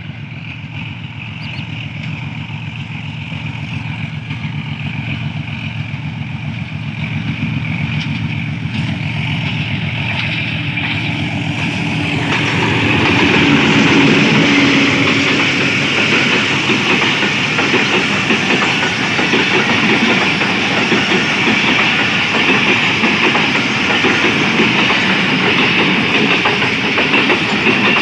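Diesel locomotive approaching with its engine running and growing steadily louder, passing close about twelve seconds in. The passenger coaches that follow rumble and clatter along the rails.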